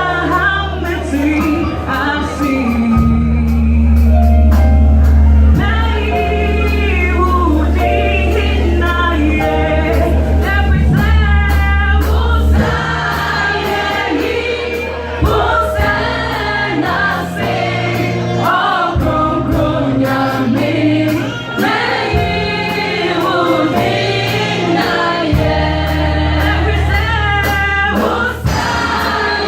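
Gospel choir singing a Twi-language song, with sustained low bass notes and a light percussive beat underneath.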